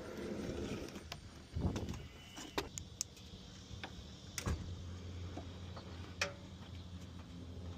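Scattered clicks, clinks and knocks of hand tools and ignition leads being worked on a piston aircraft engine while its spark plugs and leads are checked. A steady low hum sets in about halfway through.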